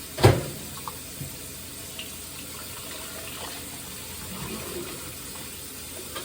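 Water running steadily, as from a kitchen sink tap or a draining dishwasher, with one sharp knock just after the start.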